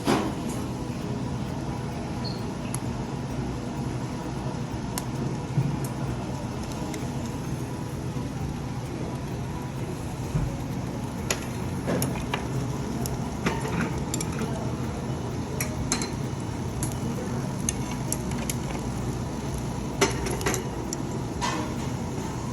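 Steady low background hum with scattered clinks and taps of dishes and utensils, the loudest a few seconds in and near the end.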